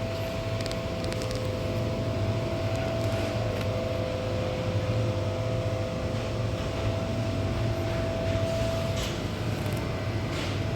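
Steady hum of shop refrigeration units: a low drone with two steady higher tones, the upper one fading out near the end, and a few light clicks.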